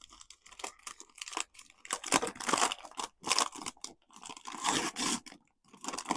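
Crinkling and tearing of the plastic wrap being peeled off a small collectible blind box, in uneven spurts with short pauses.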